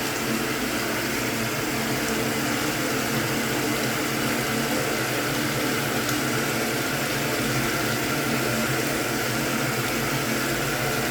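Hoover Automatic 820 washing machine filling with water for its deep rinse: a steady rush of incoming water over a low, even hum.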